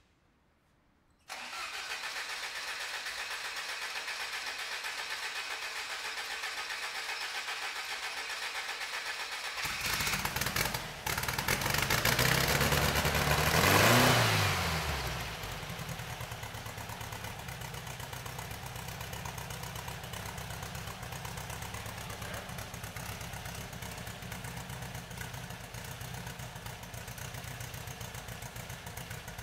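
Air-cooled Volkswagen Type 1 flat-four engine with a 43 mm Sebring exhaust and its silencer insert being started. A steady whirr comes in suddenly about a second in; near ten seconds the deeper engine note joins. The engine is revved up once and back down, then settles into a steady idle.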